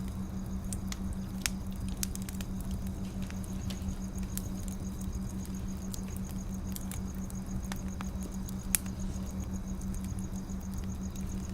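Wood fire crackling: scattered sharp pops and ticks over a steady low hum, with one louder pop about three quarters of the way through.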